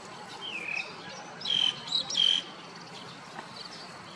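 Bird calls: a short falling whistle, then two brief, loud high-pitched chirps close together, over a faint steady insect drone.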